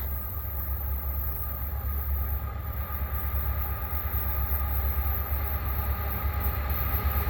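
Diesel locomotives at the head of a loaded coal train drawing up and passing: a heavy low rumble that grows steadily louder, with a steady whine above it.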